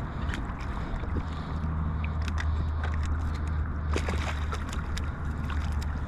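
Water sloshing around a kayak under a steady low rumble, with scattered light clicks and knocks, a few together about four seconds in.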